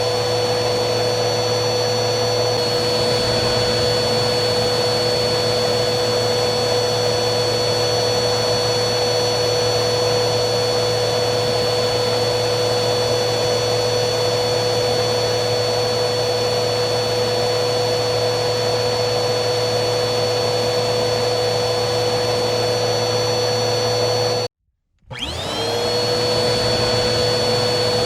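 Vacuum cleaner motor running steadily, a constant rush of air with a high whine. About 24 seconds in it cuts out abruptly for half a second, then the motor spins back up, its whine rising in pitch and settling back to running speed.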